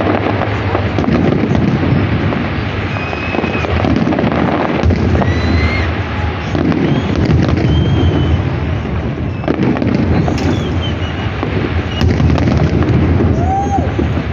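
Fireworks salute going off continuously: a dense run of bangs and crackling, with a few short high whistles.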